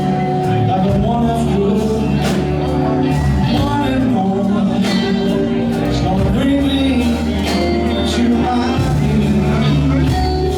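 Live blues-rock band playing loud and steady.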